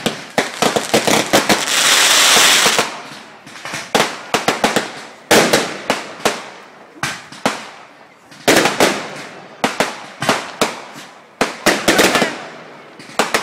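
Fireworks going off in a rapid, irregular string of sharp bangs and cracks, with a longer hiss lasting about a second around two seconds in.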